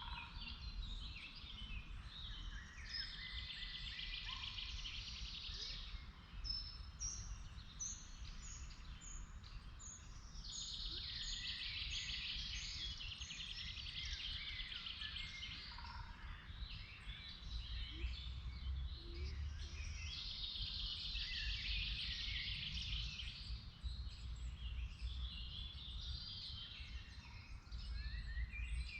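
Several songbirds singing together in a forest, a dense overlapping chorus of chirps and trills. Between about six and eleven seconds in, one bird gives a run of high, evenly spaced notes. A steady low rumble lies beneath.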